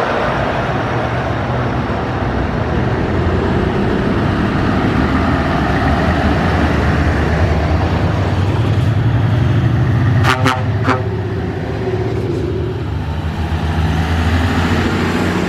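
Convoy of trucks passing by, engines running steadily with road noise, and a couple of short horn toots about ten seconds in.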